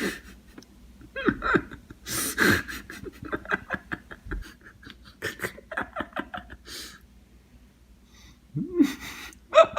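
A person laughing hard in fits of quick, rhythmic pulses, with gasping, panting breaths between the fits.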